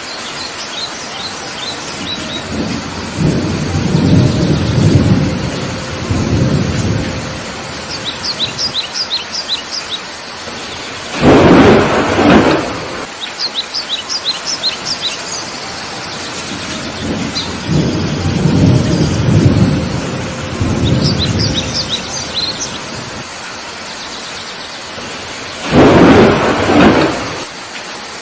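Steady heavy rain with low rumbles of thunder twice. A bird calls in quick series of short chirps several times, and two loud bursts, each over a second long, come about fourteen seconds apart.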